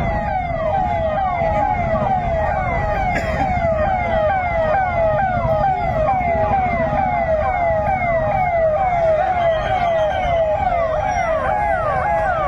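Vehicle siren wailing in quick repeated falling sweeps, about two a second, over a low rumble of road traffic. Near the end a second, higher siren joins in.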